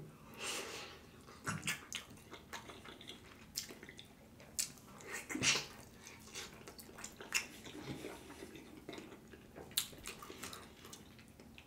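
Close-up wet chewing and lip smacking of a person eating tender, sauce-covered slow-cooked oxtail, with scattered short smacks and clicks.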